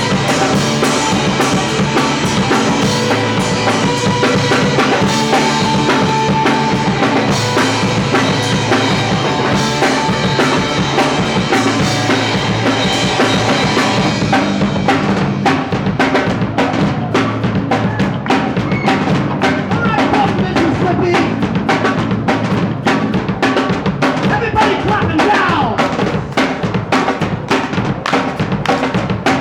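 Punk rock band playing live, with a loud drum kit beating steadily under the instruments. About halfway through the high wash thins out and the drum hits stand out more.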